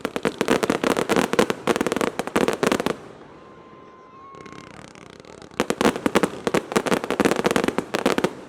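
Fireworks crackling: two long runs of rapid, dense pops, each lasting about three seconds, with a quieter hiss between them.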